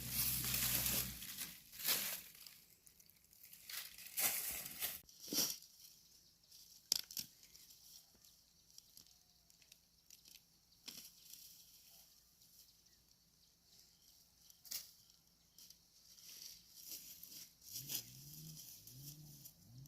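Scattered crunching and rustling, like dry plant material being handled, with a low steady hum that stops about a second in. Near the end come a few short, low animal calls in quick succession.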